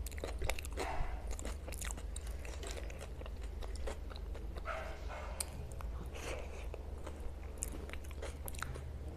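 Close-up chewing and wet mouth sounds of someone eating pav bhaji, with soft smacks and clicks scattered throughout, over a low steady hum.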